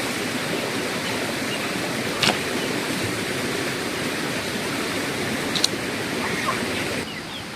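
A steady rushing noise with two short sharp clicks, one a little over two seconds in and one past five seconds. Faint bird calls come in near the end.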